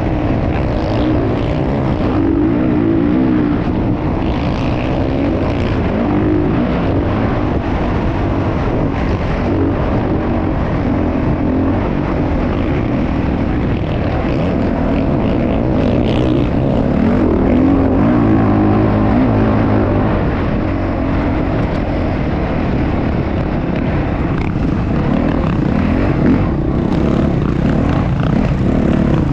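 Motocross bike engine running continuously, its pitch rising and falling as the throttle opens and closes.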